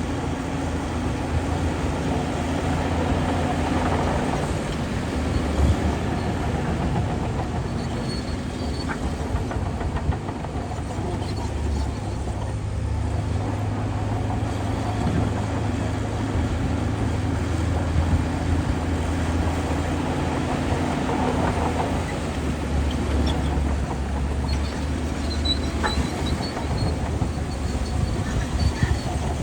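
Shantui DH17C2 crawler bulldozer's diesel engine running under load, its low note shifting as it works, with a light clatter from its steel tracks.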